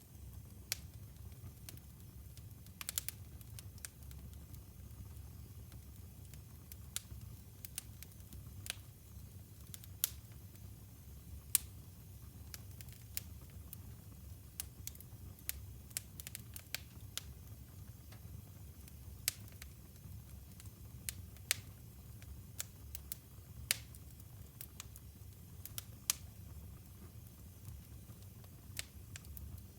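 Wood burning in a fireplace, crackling with irregular sharp pops and snaps over a low steady rumble of the flames.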